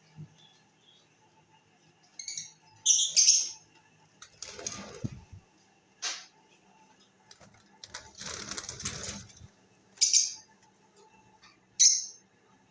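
Parrots giving loud, short, high-pitched calls about six times, with two longer bursts of wing flapping in between.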